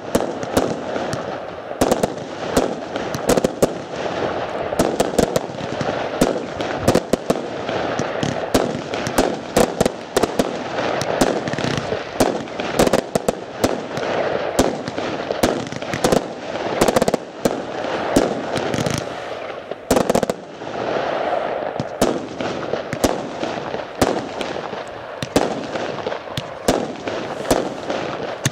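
Fireworks going off in rapid succession: dense, continuous bangs of bursting aerial shells, several a second.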